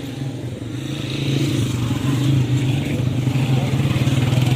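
A motor vehicle's engine running steadily, growing louder over the first second and a half and then holding.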